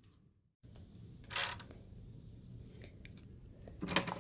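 Hotel room door being unlocked and opened: a short mechanical rattle of the lock and handle about a second and a half in, then small clicks near the end.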